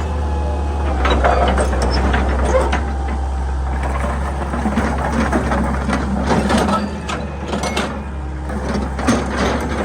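Excavator's diesel engine running steadily, with irregular crunching, scraping and clicking as the bucket breaks into earth and rock, busiest for the first several seconds and again with a sharp knock near the end.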